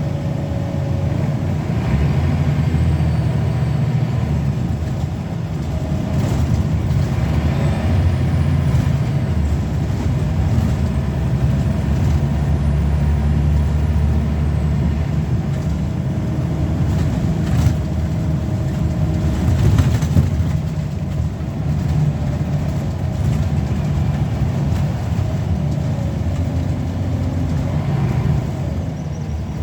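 Scania L94UB single-deck bus under way, its diesel engine running steadily with small rises and falls in pitch and level. A couple of sharp knocks or rattles come about two-thirds of the way through.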